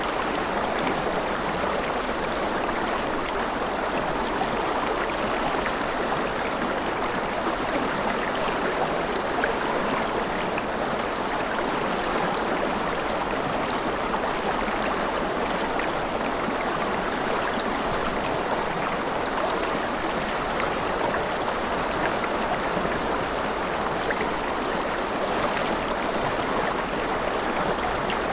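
River water flowing and splashing steadily close by, a continuous even rush with no separate events.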